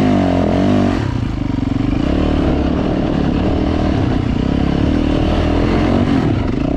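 Dirt bike engine running under throttle while being ridden, its pitch rising and falling repeatedly as the rider works the throttle and gears.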